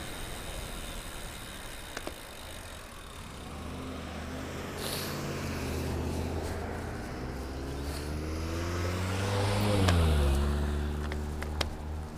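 A car approaching and passing close by, its engine note growing louder and dropping in pitch as it goes past about ten seconds in.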